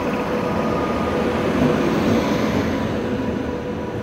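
A train of LHB passenger coaches rolling past alongside the platform: a steady rumble of wheels on the rails, with a faint steady hum over it.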